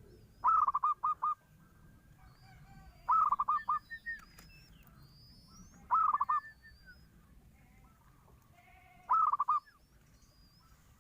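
Zebra dove (perkutut) cooing: four phrases, each a quick run of four or five short staccato coos, repeated about every three seconds. Faint high chirps of small birds sound in the background.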